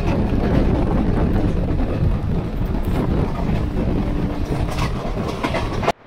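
Running noise of an express train heard from on board: a steady rumble of wheels on rails with rushing air, and a run of sharp clicks in the last second. It cuts off suddenly just before the end.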